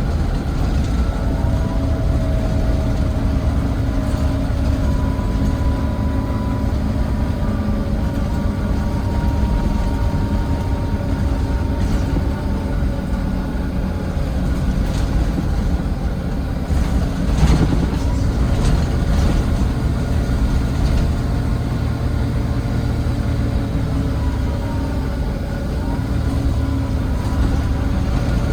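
Volvo D9B diesel engine of a Volvo B9TL double-decker bus under way, heard from inside at the back of the bus: a steady heavy rumble with thin whines that slowly rise and fall. A cluster of knocks and rattles comes a little past halfway.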